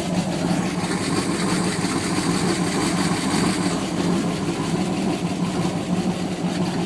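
Ford GT40's V8 engine idling steadily through its exhaust, with a low, even rumble.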